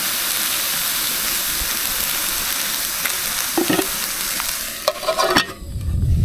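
Breaded cutlets sizzling in a pan on a gas camp stove, a steady frying hiss. A few light clinks come near the end, and then the sizzle stops abruptly.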